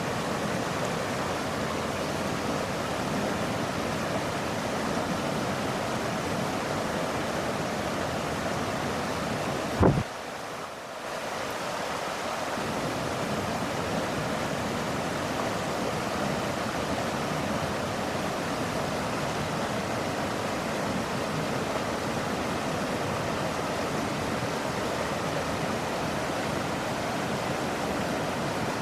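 Steady rush of running water. About ten seconds in there is a single thump, the loudest sound here, after which the rush drops briefly before returning.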